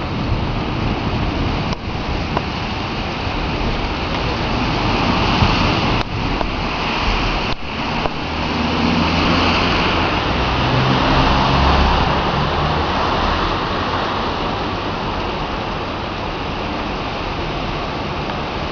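Heavy thunderstorm rain falling in large drops, a steady dense hiss of water. A low rumble swells in the middle and fades a few seconds later.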